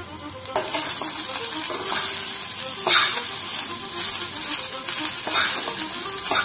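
Shredded cabbage and green chillies sizzling as they sauté in a metal kadai. A slotted metal spatula stirs them, with a few sharp scrapes of the spatula against the pan.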